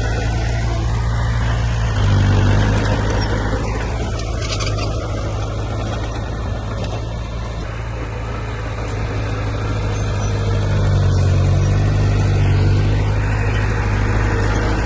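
Heavy diesel engine of earthmoving equipment running steadily with a deep hum. It grows louder under load about two seconds in and again past ten seconds.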